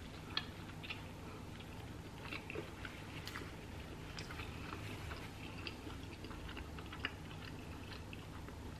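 Close-up chewing of a mouthful of toasted everything-bagel breakfast sandwich: soft, irregular mouth clicks and crunches, faint.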